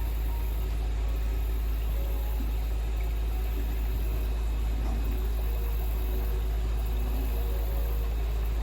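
Steady rush of fast-flowing river water, a constant noise with a deep low rumble and no breaks.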